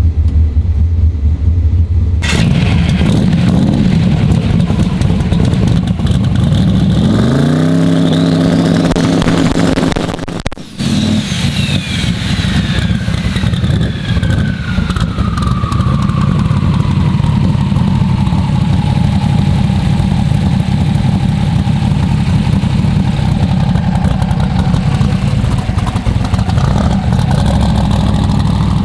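Twin-turbo big-block Chevy V8 running loud; about seven seconds in it is revved with the pitch rising, then a high whine falls slowly over the next ten seconds or so as the engine settles back.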